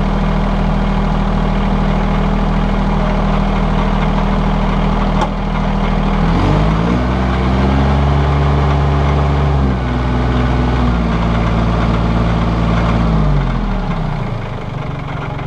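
Massey Ferguson 1635 compact tractor's diesel engine idling, then revving up about six seconds in, holding at higher speed for several seconds, and dropping back to idle near the end.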